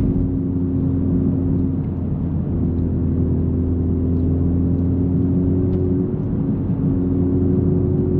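Honda Civic Type R's turbocharged 2.0-litre four-cylinder running at a steady pitch through its AWE Touring cat-back exhaust, heard from inside the cabin while driving. The hum is even, with only small shifts in level.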